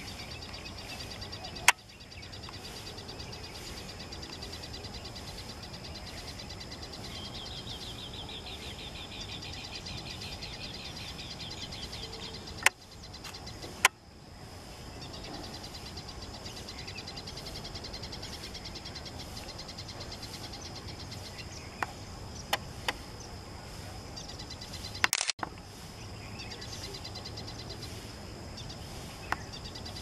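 Small birds calling outdoors: a steady, high, finely pulsing chirr with a rapid trill from about seven to twelve seconds in. Several sharp clicks break in, the loudest near the start, around thirteen and fourteen seconds, and around twenty-five seconds.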